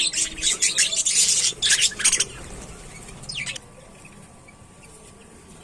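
A flock of budgerigars chirping and chattering, busy and loud for the first two seconds, with one more call about three and a half seconds in, then quieter.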